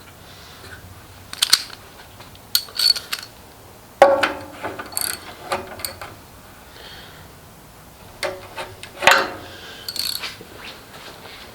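Metal hand tools clicking and clinking in short, irregular groups, with the ratcheting of a socket wrench among them.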